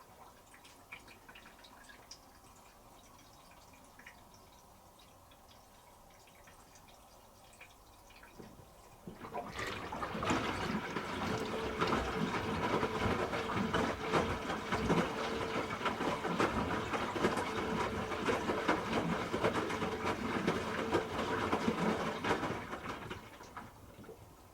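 Hoover H wash 300 Plus washing machine taking in water for a rinse: a steady rush of water with a faint whine starts suddenly about nine seconds in and dies away about two seconds before the end, over a low slosh from the drum.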